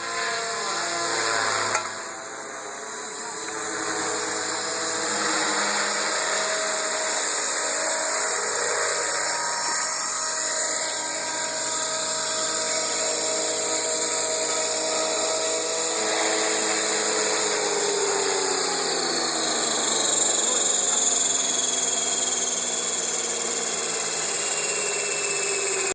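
Radio-controlled AS350B Esquilo scale helicopter running, a steady whine of motor and rotors. Its pitch drops about two-thirds of the way through, then holds lower.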